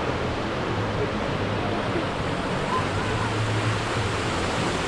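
Water rushing and splashing steadily, an even wash of noise with no breaks.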